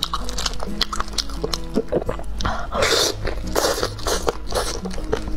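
Close-miked biting and chewing of sauce-glazed fried chicken: quick sharp mouth clicks throughout, with two louder, noisy bite sounds a little past the middle. Background music with held low notes plays underneath.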